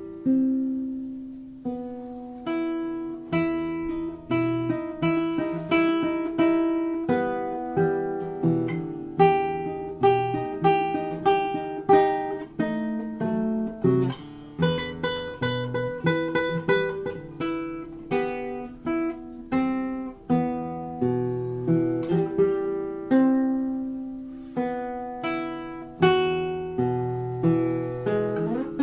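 A newly strung custom-built guitar played solo: a slow melody of plucked notes and chords, each struck cleanly and left to ring, about one or two a second.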